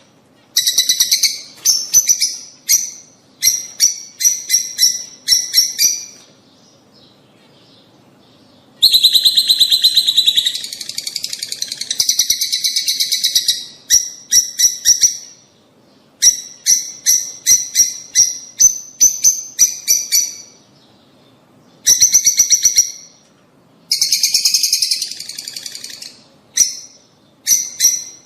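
Lovebirds (rosy-faced and Fischer's) calling: loud bouts of rapid, sharp, shrill chirps, broken by short pauses and one pause of a few seconds, with a dense stretch of chatter about a third of the way in.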